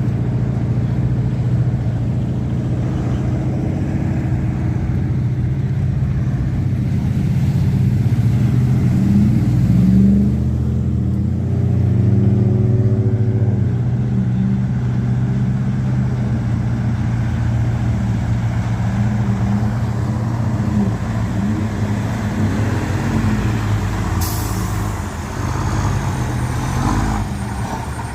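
A military 6x6 truck's engine runs under load as it crawls through water and sinkholes, its pitch rising and falling as the throttle changes. About three-quarters of the way through there is a short hiss.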